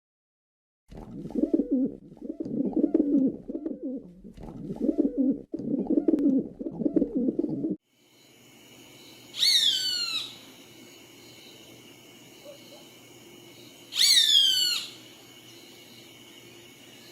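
Bird calls in two parts. First comes about seven seconds of low, pulsing cooing. Then come two high whistled calls, each falling steeply in pitch and about four seconds apart, over a faint steady high hum.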